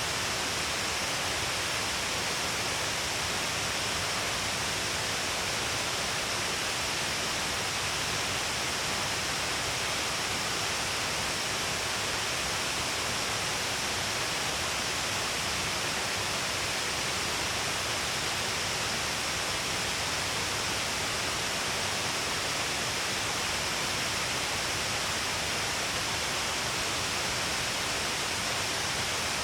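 Shiraito Falls, many thin streams of water pouring down a long cliff face, making a steady, dense rush of falling water that never lets up.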